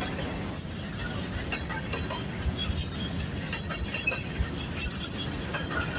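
Freight train of chemical tank cars rolling past: a steady rumble of steel wheels on rail with scattered clicks.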